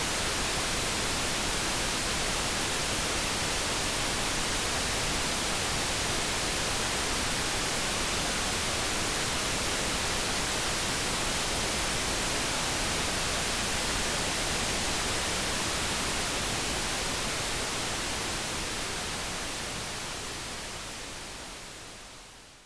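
Steady synthetic light brown noise, an even hiss with no tones in it, that fades out over the last five seconds or so.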